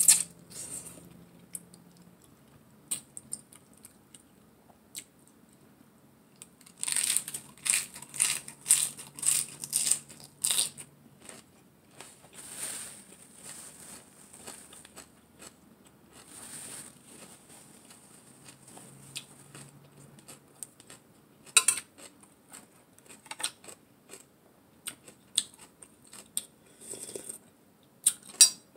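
Close-up eating sounds: chewing and crunching a lettuce-leaf wrap of shredded carrot salad, with a slurp of glass noodles at the start. A run of crisp crunches comes from about seven to eleven seconds in, and a spoon clinks near the end.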